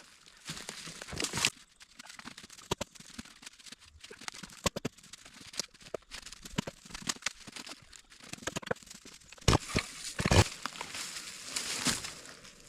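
Rustling and crackling in dry leaves and brush, with scattered sharp knocks and snaps. The loudest knocks come a little before the end.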